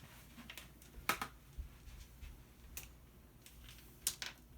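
A few sharp clicks and small scrapes of a screwdriver working a screw out of a plastic toy, the loudest about a second in and another just after four seconds.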